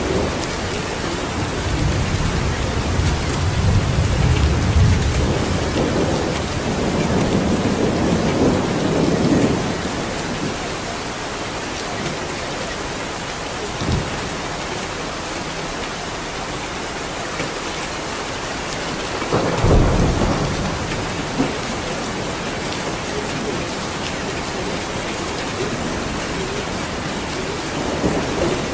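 Steady heavy rain with thunder: a long rolling rumble in the first ten seconds or so, a sharp crack about halfway through, and another rumble a few seconds later.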